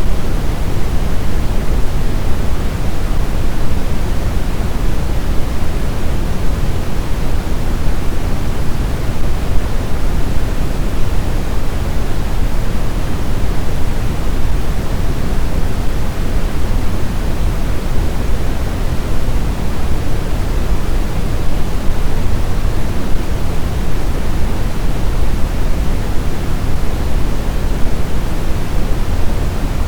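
Snowstorm wind as a loud, steady rushing noise, heaviest in the low end and even throughout, without distinct gusts or whistling tones.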